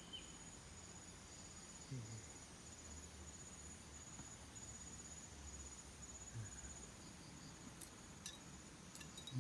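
Faint, high-pitched insect trill, a rapid fine pulsing that runs in stretches and breaks off now and then. A few sharp clicks near the end.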